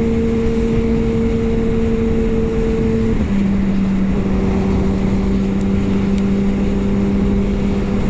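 Kawasaki ZX-10R inline-four engine running at a steady cruise under heavy wind rush on the microphone. A little after three seconds in, its pitch drops a step and holds steady at the lower note.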